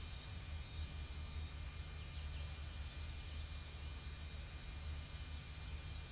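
Outdoor field ambience: low wind rumble on the microphone, a steady high-pitched hum, and a few faint, brief bird chirps.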